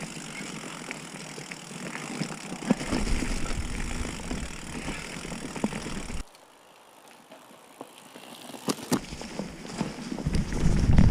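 Ibis Mojo HD3 mountain bike riding over a trail: steady tyre and rolling noise with frequent knocks and rattles from the bike. About six seconds in it drops suddenly to a much quieter stretch, then grows loud again with knocks near the end.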